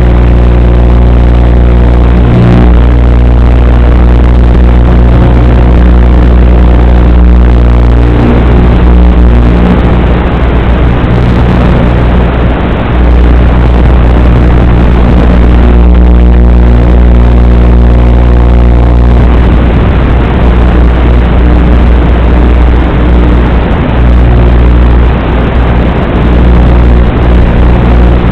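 Small brushless motors of an Eachine Lizard95 FPV racing quadcopter running steadily, with a heavy low wind rumble on the microphone. The motor tone is steady in the first several seconds and again after about 19 seconds, and turns rougher in between.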